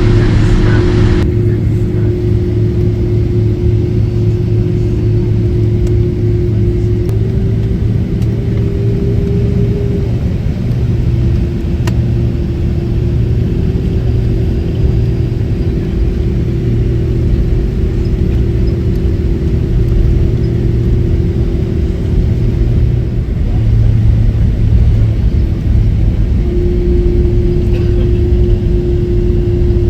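Cabin noise of a Boeing 767-300 with General Electric CF6 engines running: a steady low rumble with an engine hum that steps up in pitch about seven seconds in, drops back a few seconds later, fades briefly, then returns.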